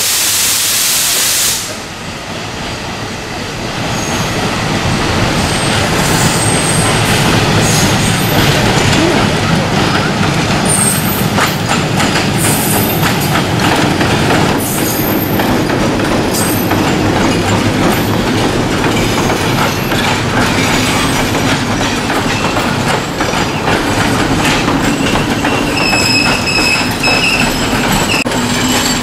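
Diesel-hauled passenger train passing slowly over junction points. A horn blast cuts off about a second and a half in, then the carriages rumble and clatter over the rail joints, with high-pitched wheel squeals on the curves.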